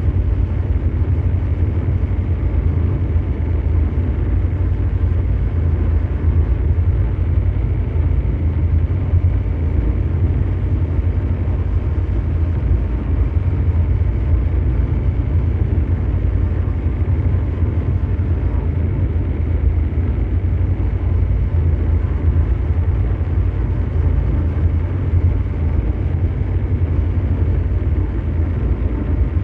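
Steady ambient mechanical drone: a deep, even brown-noise rumble, strongest in the bass, with a fainter hiss above it and no change throughout.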